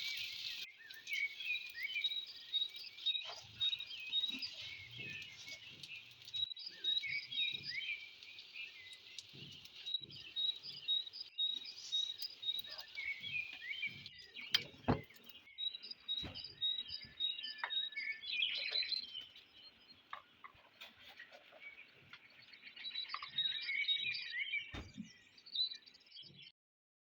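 Small birds chirping and twittering continuously, with scattered sharp knocks and clinks; the sound cuts off suddenly near the end.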